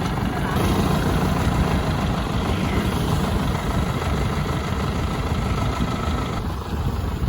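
An engine running steadily with a dense low rumble; its higher-pitched noise drops away about six and a half seconds in.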